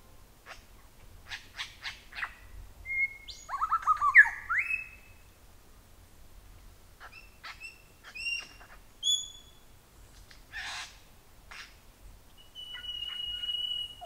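Several rainforest birds calling: short chips and whistled notes, a louder run of quick whistles a few seconds in, and a long steady whistle near the end.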